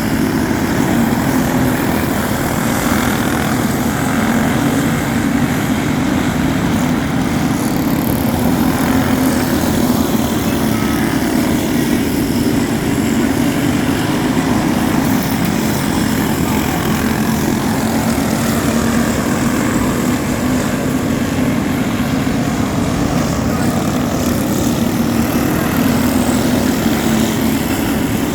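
Speedway motorcycle engines running on the track, a loud continuous engine drone with no breaks.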